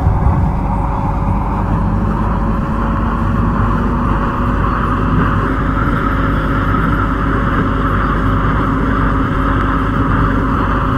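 Kwun Tong Line C-Train running: a steady loud rumble of wheels on rail, with a steady motor whine under it.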